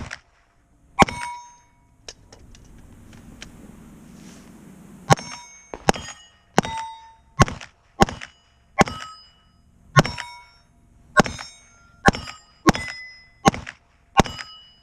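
Pistol shots fired in quick succession at steel plates, each shot followed by the ring of a plate being hit. Two shots about a second apart open the string, then a pause of about three seconds, then a steady run of roughly one shot every 0.7 seconds.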